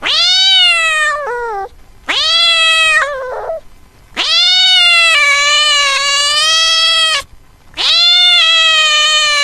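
A cat meowing four times in separate calls, each one rising then falling in pitch; the third meow is long and drawn out, about three seconds.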